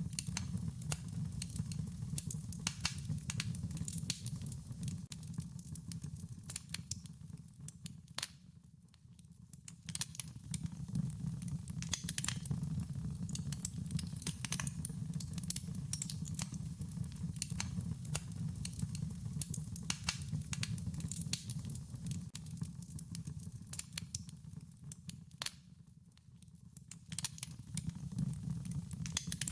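Wood fire crackling, with many sharp irregular pops over a low steady rumble. The crackling dies down briefly twice, about eight seconds in and again near the end.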